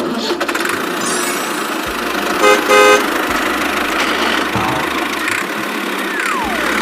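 Steady vehicle engine-like running noise, with a horn giving two short honks about two and a half seconds in.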